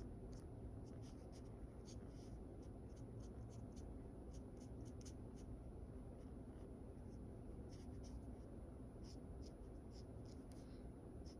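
Faint short scratchy strokes of a drawing tool on paper while sketching, coming irregularly, some in quick runs, over a steady low background hum.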